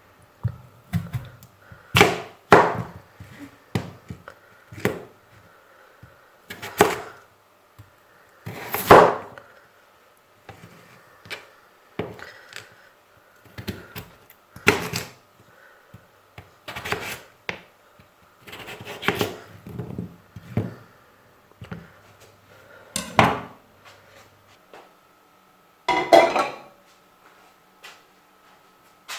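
Irregular knocks and clatters of objects being handled and set down, over a faint steady hum.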